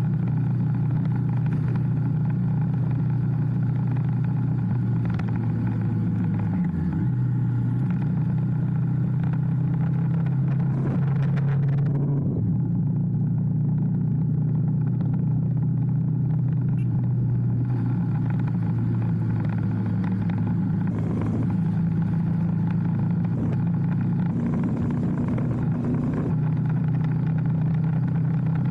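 Motorcycle engine running steadily on the move, a steady low drone with brief pitch changes about 7 and 12 seconds in, as from gear shifts or throttle changes.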